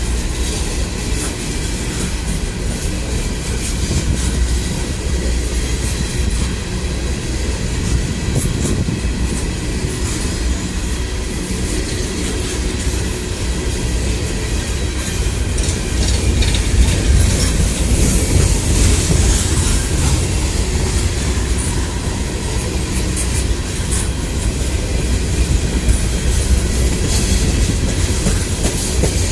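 Train rolling past, a steady low rumble with the wheels clicking over rail joints throughout.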